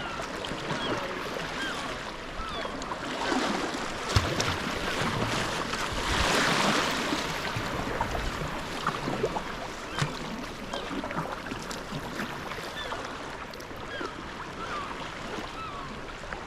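Sea kayak paddle strokes splashing and dripping, with water lapping at the hull. The splashing swells louder about six seconds in, and there are a couple of short sharp knocks.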